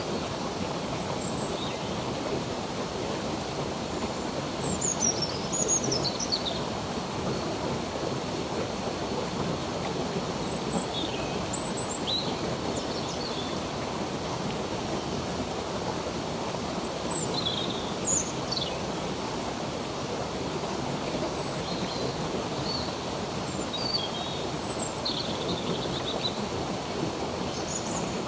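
Steady rushing of a flowing stream, with birds chirping in short high calls now and then above it.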